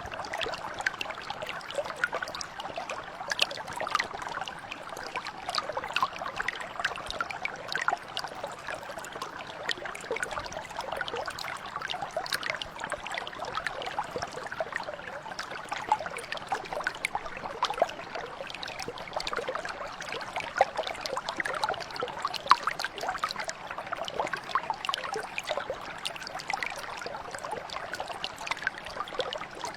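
A mountain brook running over rocks: a steady babble of flowing water, full of small splashes and trickles.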